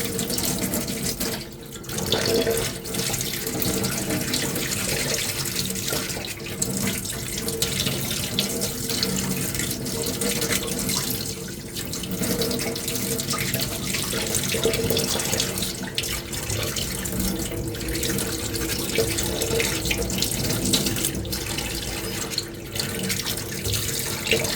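Sandpaper being worked by hand over a filler-primed armour piece: a steady scratchy hiss, broken now and then by a brief pause.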